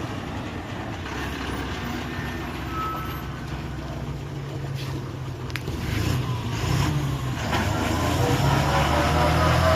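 A truck's engine runs steadily and grows louder from about six seconds in.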